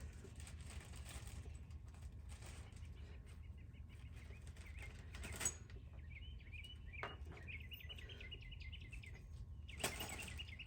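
Bird chirping, a string of short high chirps repeated over a low steady background rumble, with one sharp click about five and a half seconds in and a brief rush of noise near the end.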